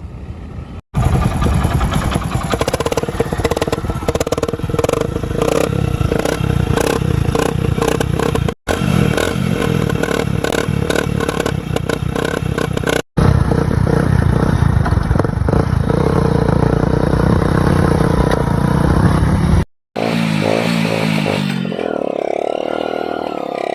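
Hero HF Deluxe motorcycle's small single-cylinder four-stroke engine running, its exhaust blowing through a drink can taped over the silencer outlet. This is a homemade modification meant to give a deeper KTM Duke-like beat. The sound comes in several clips joined by abrupt cuts, and a different, quieter sound follows the last cut near the end.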